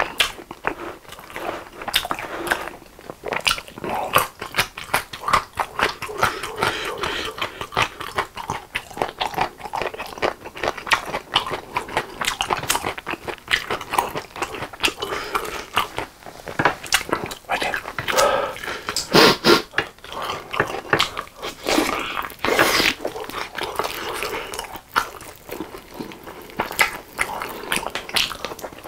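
Close-miked wet chewing and lip-smacking of sauce-glazed spicy fried chicken drumsticks, with sticky clicking mouth sounds and meat being torn from the bone. It comes in dense, irregular bites and chews, louder around two thirds of the way through.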